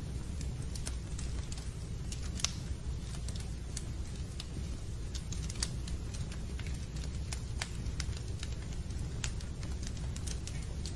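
Fireplace fire crackling: irregular sharp pops and snaps, a few a second, over a steady low rumble.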